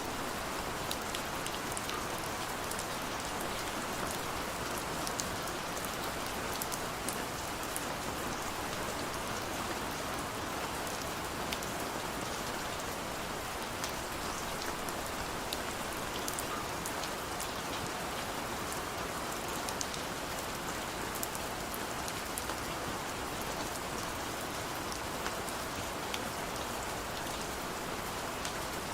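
Heavy rain falling steadily, a dense even hiss with many small drop ticks on a hard surface.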